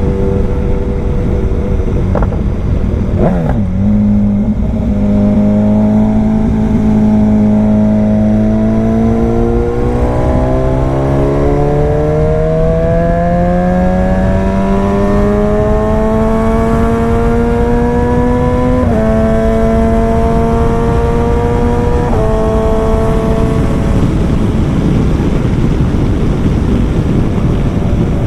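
Loud BMW S1000 XR inline-four motorcycle engine accelerating hard through the gears. Its note climbs steadily, with quick upshifts about three seconds in, about two-thirds of the way through and again shortly after. Near the end the engine note fades under a steady rush of wind noise.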